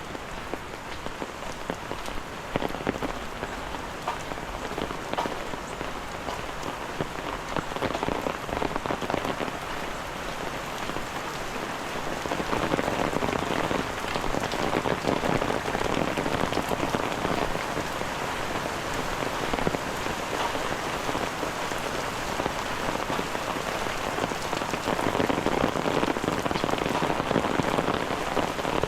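Steady rain falling, with many small drop impacts, growing louder about twelve seconds in.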